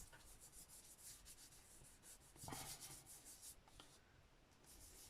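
Faint rubbing of a fingertip over paper in quick repeated strokes.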